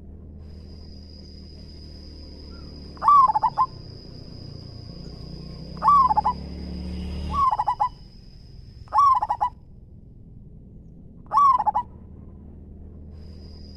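Zebra dove (perkutut) singing: five short bursts of its rapid, stuttering coo, spaced a couple of seconds apart. A thin steady high whine sounds behind the first half and stops partway through.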